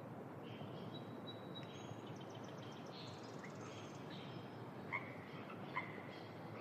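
Spring wetland ambience: a steady background hiss with faint bird chirps and trills, then two short frog croaks near the end.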